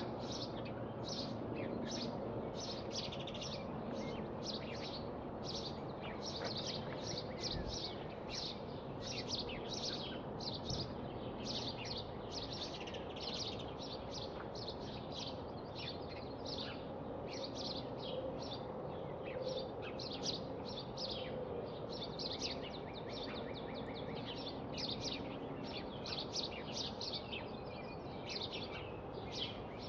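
Birds chirping, a dense run of short, quick chirps that goes on without a break, over a steady background hiss.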